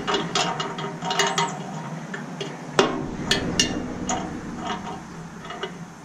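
Scattered metallic clinks and knocks of tools and parts while a stainless steel bread steamer is taken apart for its brass hose barbs, with a sharper knock about three seconds in.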